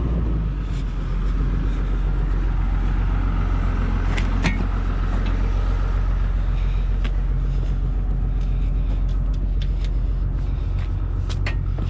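Skid steer engine running steadily, with a few sharp metallic clicks about four seconds in and again near the end.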